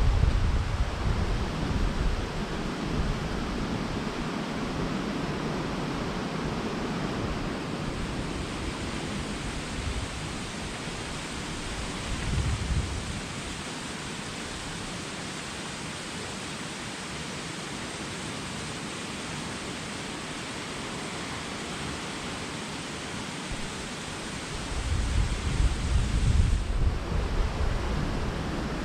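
Steady rushing noise of a waterfall, with wind buffeting the microphone in low gusts at the start, about twelve seconds in and again near the end.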